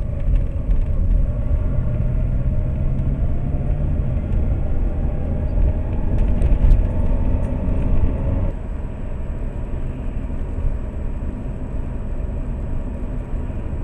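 Car engine and road noise heard from inside a Lada Priora through a dashcam. The engine pitch climbs steadily as the car accelerates for about eight seconds, then drops suddenly as the throttle is lifted or a gear changes, and it runs on at a steadier speed.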